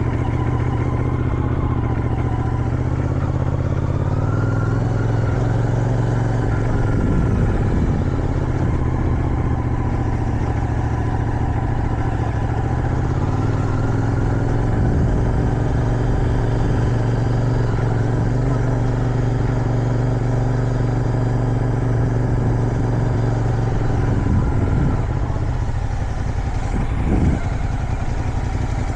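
Motorcycle engine running under way, with wind rushing past. The engine note holds steady for long stretches and steps in pitch a few times as the rider changes throttle and gear. It drops off with falling pitch near the end.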